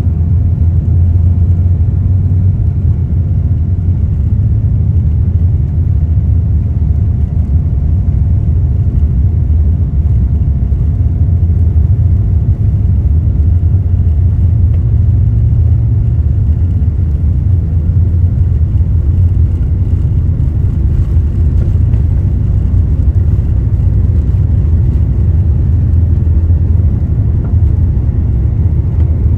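Jet airliner cabin noise: a loud, steady low rumble of the engines and airflow heard from inside the passenger cabin.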